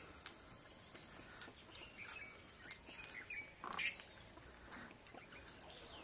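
Faint chirps of small birds, a few short calls scattered through, the strongest about four seconds in.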